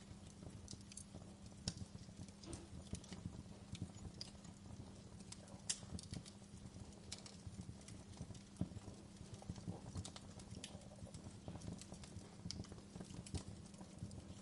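Wood fire burning in a fireplace: a low, steady rumble of flames with irregular crackles and pops of burning firewood, one sharper pop about six seconds in.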